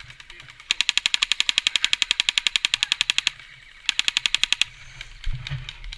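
Airsoft gun firing on full auto: one long burst of rapid, evenly spaced shots lasting about two and a half seconds, then a short burst of under a second.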